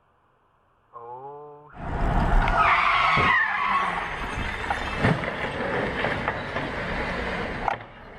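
Car tyres skidding with a squeal over loud road noise, with several sharp knocks, after a short wavering tone about a second in.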